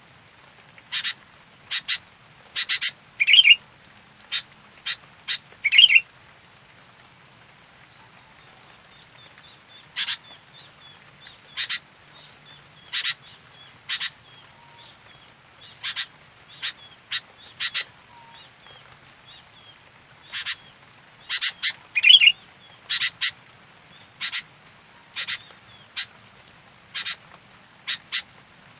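Sooty-headed bulbul (kutilang) calling: short, sharp chirps at irregular gaps of about a second, with a few louder, longer calls among them.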